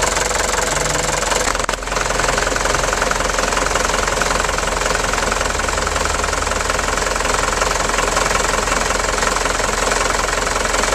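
Diesel engine running steadily at a fast even idle, with a brief dip in level about two seconds in.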